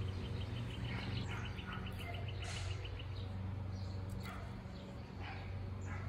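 Outdoor background sound: a small bird's trill, a quick run of even high chips lasting about three seconds, over a steady low hum.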